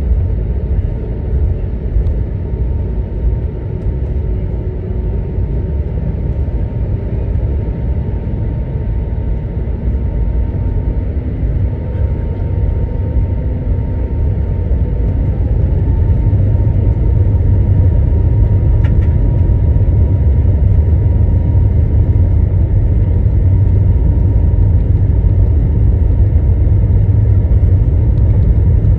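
Inside an Airbus A321's cabin on the ground before takeoff: a steady low rumble from the jet engines with a faint steady whine, growing louder a little past halfway through.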